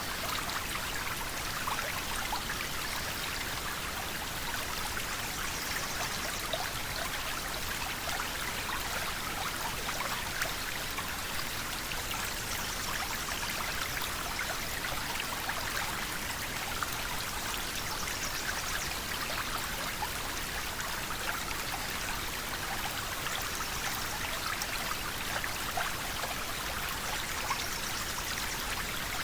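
River water flowing steadily, a continuous rush with many small splashes and trickles.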